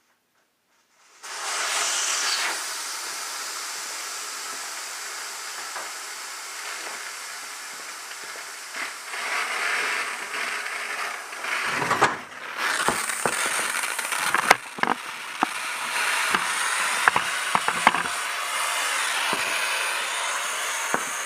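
Tire changing machine at work on a car tire: a steady air hiss that starts suddenly about a second in, with a run of sharp metallic clicks and clanks from about halfway.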